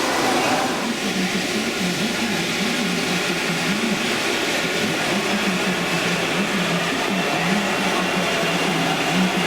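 H0-scale model trains running on a layout: a steady hum and rolling rattle of the small electric locomotives and wagons on track.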